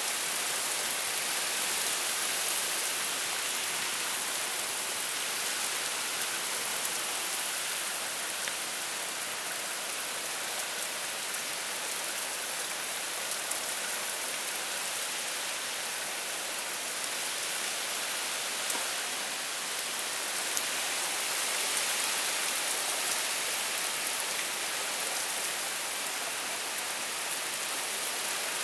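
Heavy rain pouring down steadily, with scattered drops ticking on nearby surfaces.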